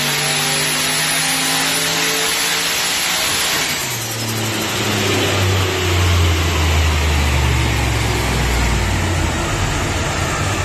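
Turbocharged LS1 V8 in a VX Commodore, fitted with a Borg Warner S366 turbo, pulling under full load on a chassis dyno, its revs climbing steadily over loud rushing noise. About four seconds in it comes off the throttle, and the note drops to a lower, steadier run that fades out near the end.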